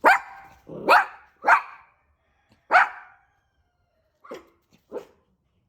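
Small dog barking: four loud, sharp barks in quick succession in the first three seconds, then two quieter barks near the end.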